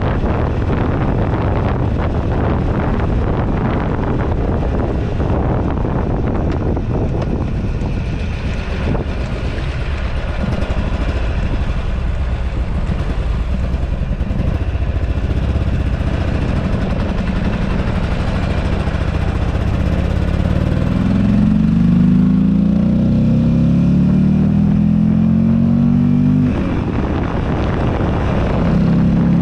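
2008 Buell Ulysses XB12XT's air-cooled V-twin engine running while riding, with heavy wind noise on the microphone. Past the middle the engine pulls harder, its pitch rising, then falls away briefly and picks up again near the end.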